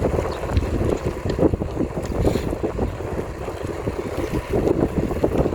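Wind buffeting the microphone of a camera riding on a moving bicycle, a dense irregular rumble with quick gusts, over the hum of the ride.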